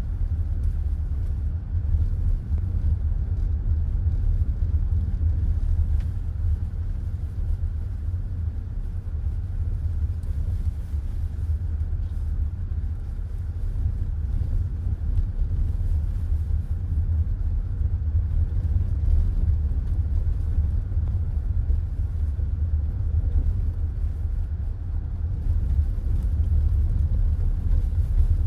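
Car driving along a road, heard from inside the cabin: a steady low rumble of road and engine noise with no distinct events.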